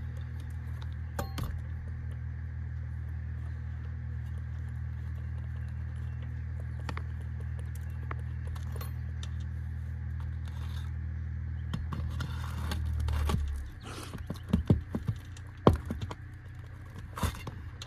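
Flat bar prying roofing nails out of an asphalt shingle: scattered sharp metal clicks and scrapes, the nails tearing out through the shingle. A steady low hum runs beneath and stops about two thirds of the way in.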